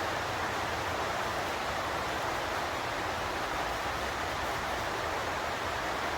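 Steady, even hiss with no distinct events, strongest in the middle range.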